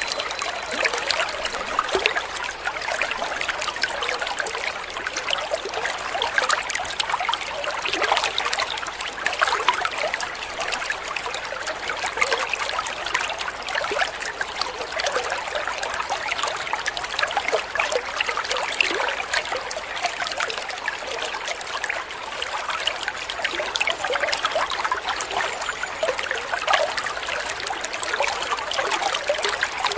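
Shallow stream water trickling and babbling, a steady, even flow.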